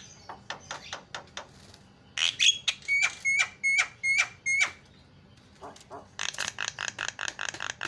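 Javan myna (jalak kebo) calling: scattered harsh clicks, then a run of about six sharp, ringing notes, and near the end a fast rattling chatter of about eight notes a second.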